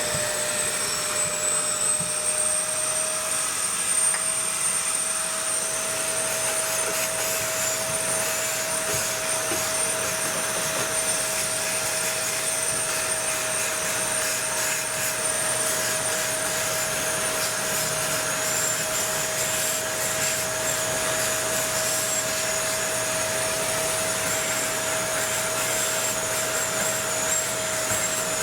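Small electric vacuum cleaner running steadily with a high motor whine, settling to full speed in the first couple of seconds, as it sucks sand dust out of an engine bay.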